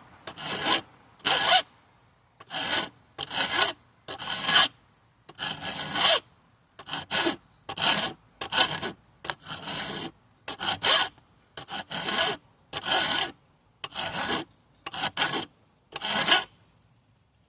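Hand file rasping across the teeth of a chainsaw chain, about twenty separate strokes at roughly one a second, stopping shortly before the end.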